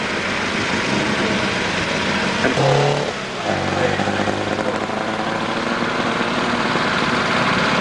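Racing car engine running hard on a hillclimb, with a brief break in the engine note about three seconds in, then a steady engine note.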